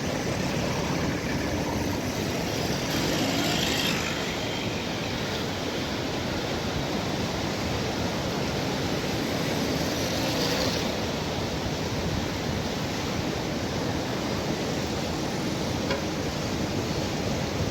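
Steady rushing of a river running again after rain, with the hiss swelling briefly twice.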